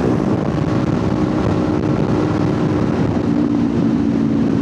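Kawasaki Ninja 500's parallel-twin engine running at a steady cruise, with wind rushing over the helmet microphone. The engine note drops slightly about three seconds in.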